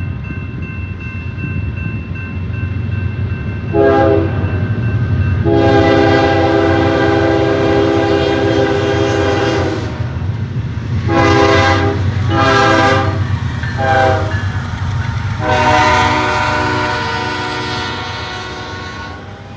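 Locomotive air horn sounding a series of blasts: a short one, a long one of about four seconds, three short ones, then another long one, over the steady low rumble of the passing train. The sound fades near the end.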